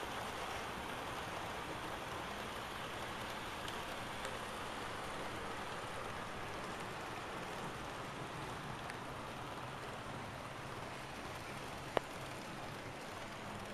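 Model trains running on a layout: a steady rolling whir of wheels on track, with one sharp click about twelve seconds in.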